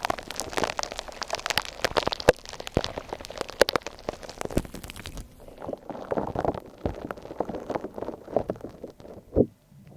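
Gritty shaved-ice slime being squeezed and kneaded by hand, recorded close up: dense crackling and crunching, then from about five seconds in softer, lower squelching and popping.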